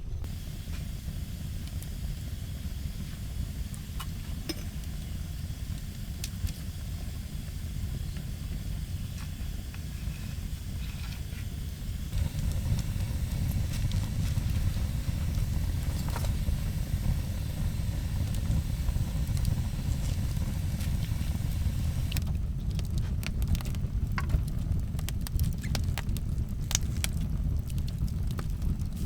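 Wood fire burning: a steady low rumble with scattered crackles and snaps, which come thicker in the last several seconds.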